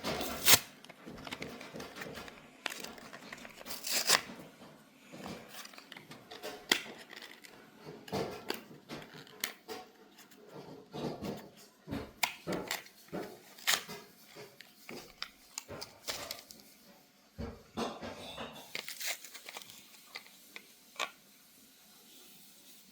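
Hands tearing open and handling a doll's cardboard and plastic packaging: irregular crinkling, tearing and sharp clicks and snaps.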